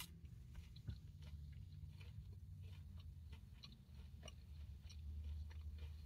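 A person chewing food with soft, scattered mouth clicks, over the low steady hum of the idling car.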